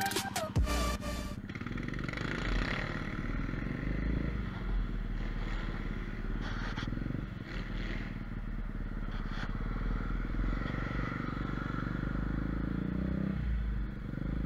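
A 125cc mini cross pit bike engine running steadily while the bike is ridden along, with a constant low hum and road noise.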